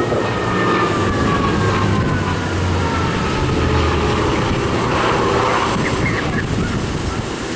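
Hawker Fury's Bristol Centaurus radial piston engine drones as the aircraft flies past, with a high whine that falls slowly in pitch over the first few seconds.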